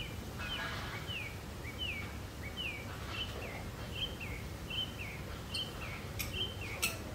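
A bird calling over and over, a short falling chirp repeated every half second or so. Two sharp clicks come near the end, over a low rumble.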